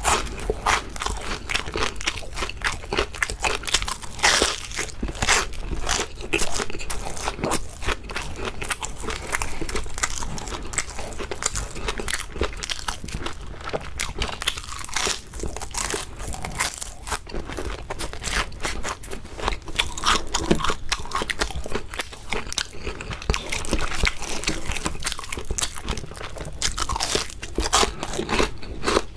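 Close-miked biting and chewing of crisp shrimp, a steady run of loud crunches one after another.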